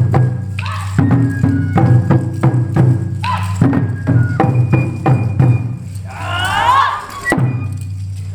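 Japanese taiko drums played in a quick, even rhythm, with naruko wooden clappers clacking and rattling along. About six seconds in there is a burst of shouting, then one final hit.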